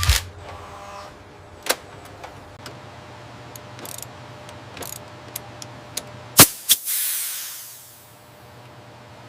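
Factory machinery: a loud metallic knock, then scattered sharp clicks and ticks over a low hum. About six and a half seconds in come two loud knocks, followed by a hiss of released air that fades away over about a second.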